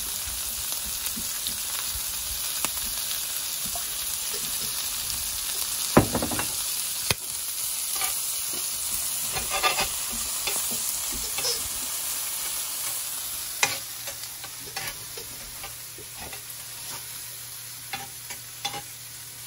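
Squid and hot pepper rings frying in olive oil in a cast-iron skillet: a steady sizzling hiss that eases a little about two-thirds of the way through. Metal tongs click against the pan now and then as the pieces are turned.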